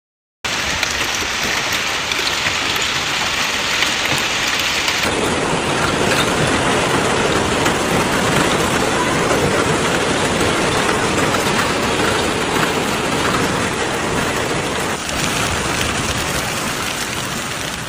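Heavy storm downpour pelting steadily on surfaces, a dense unbroken hiss and patter. The sound changes abruptly about five seconds in and again near fifteen seconds, as different storm clips cut in, and fades near the end.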